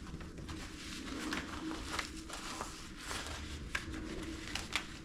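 Fabric rustling and a few brief soft clicks as a blood pressure cuff is handled and wrapped around an upper arm.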